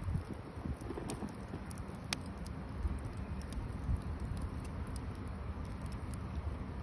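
Wood campfire crackling: irregular sharp pops and snaps, one louder pop about two seconds in, over a steady low rumble.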